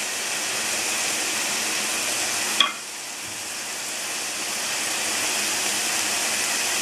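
Chopped onions and tomatoes frying in oil in an aluminium kadai: a steady sizzle, broken by one sharp click about two and a half seconds in.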